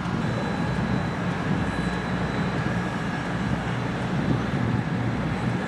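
Passenger train rolling past: a steady rumble of the cars' wheels on the rails, with a faint high steady ring above it.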